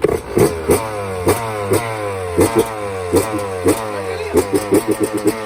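Yamaha YZ125 single-cylinder two-stroke dirt bike engine being revved in quick repeated throttle blips, about two a second, the revs falling away after each blip.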